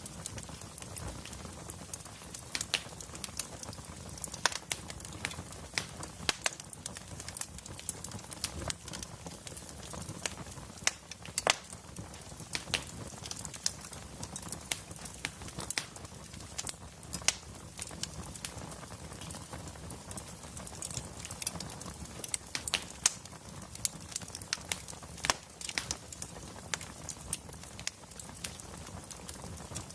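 Wood fire crackling: frequent sharp pops and snaps at irregular moments over a steady low hiss and rumble of burning.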